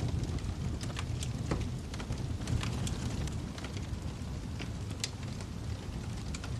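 Wood fire burning in a fireplace: a steady low rumble of flame with scattered crackles and pops, a sharper pop about five seconds in.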